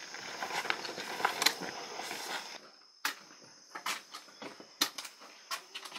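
Footsteps and crutch tips tapping on a dirt path, heard as scattered sharp clicks over a rustling shuffle, with a steady high insect chirr behind them. The sound drops out briefly about halfway through, then the clicks go on more sparsely.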